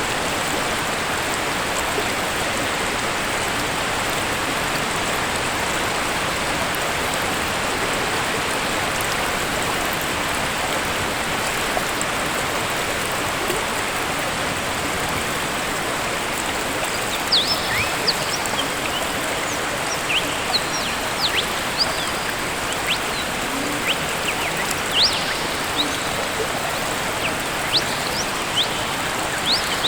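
Steady rush of a waterfall, with short, quick bird chirps coming in a little past halfway and repeating irregularly to the end.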